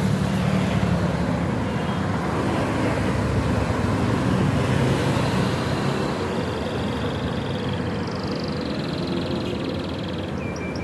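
Steady rumble and hiss like road traffic, with faint high warbling lines of a canary's song in places.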